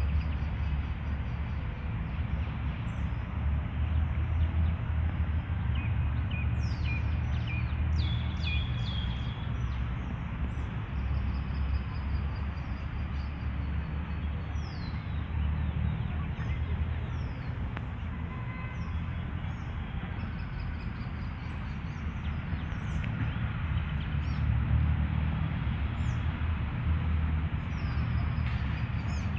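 Small birds chirping and calling in short, quick notes throughout, with a cluster of calls about seven to nine seconds in, over a steady low rumble.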